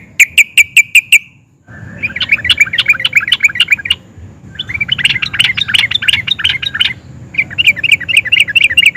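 Yellow-vented bulbul (trucukan) singing: a run of six loud, evenly spaced repeated notes, then after a short pause three long runs of rapid, bubbling warbled notes with brief breaks between them.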